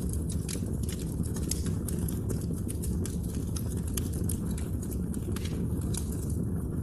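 Wood fire crackling: frequent irregular snaps and pops over a steady low rumble of burning logs.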